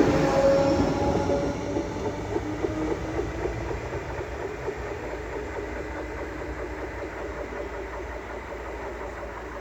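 Renfe series 447 electric commuter train running past and fading away as it recedes, with a thin whine in the first second or so.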